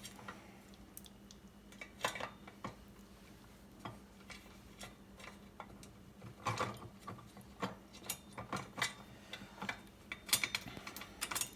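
Scattered metal clicks and knocks from a hand-cranked steel-plate grain grinder as its plate-adjusting screw is turned and the parts are handled; the clicks come thicker near the end.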